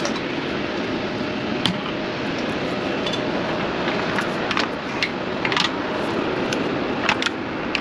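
Scattered sharp metallic clicks and ticks of hand tools working on metal fittings, over a steady mechanical rushing noise.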